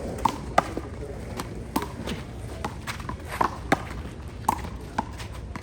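A handball rally: the rubber ball is slapped by hands and smacks off the wall and ground, a string of sharp smacks at uneven intervals, sometimes two in quick succession.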